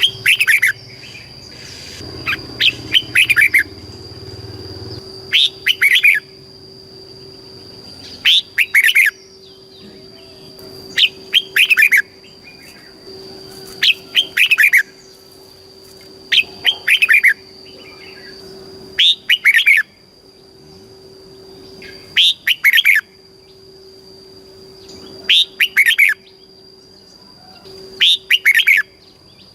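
Red-whiskered bulbul singing, one short phrase of quick falling chirps about every two to three seconds.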